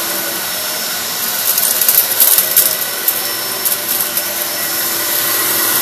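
Kenmore 600 series bagless upright vacuum running on carpet, with a burst of crackling and clicking from about a second and a half to four seconds in as it sucks up sand.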